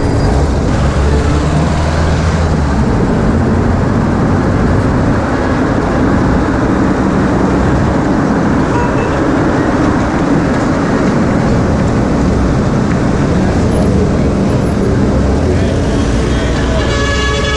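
Bus engine running and road noise from inside a moving bus in heavy traffic. Near the end a vehicle horn starts sounding.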